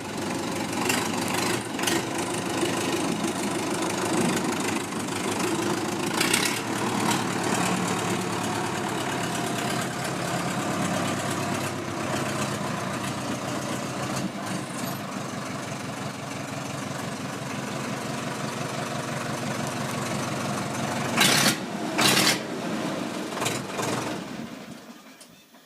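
Sonalika WT 60 tractor's diesel engine running steadily at idle. Near the end come two loud sharp knocks about a second apart, and then the engine sound dies away.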